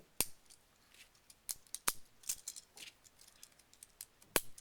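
Plastic Lego pieces being handled and pressed onto a model: irregular sharp clicks and light clatter, with three louder clicks, about a quarter second in, near two seconds and past four seconds.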